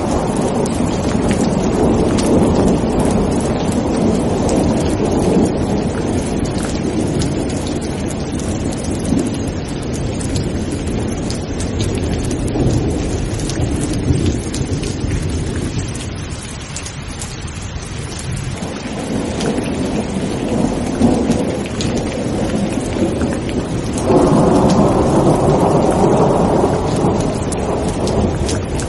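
Steady rain with thunder rumbling underneath. The rumble fades a little past halfway, then a louder roll of thunder comes in suddenly near the end.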